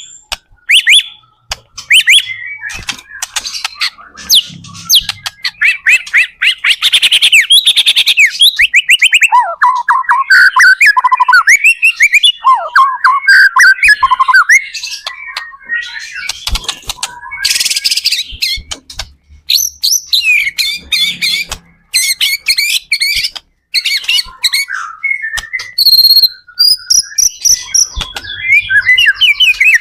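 White-rumped shama (murai batu) singing loudly and continuously: a fast, varied song of rapid repeated notes, trills and sweeping whistles, with only brief pauses.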